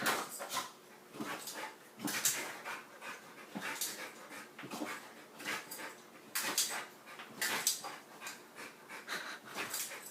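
A dog panting, short noisy breaths coming irregularly, about one or two a second.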